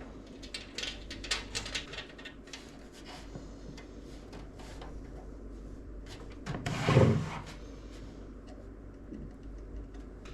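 Hands handling computer parts: a series of light clicks and rustles, then one louder rubbing thud about seven seconds in.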